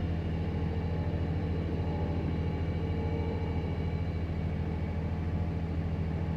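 Ferrari Testarossa's flat-12 engine idling steadily during warm-up after a cold start, with a fast, even low pulse.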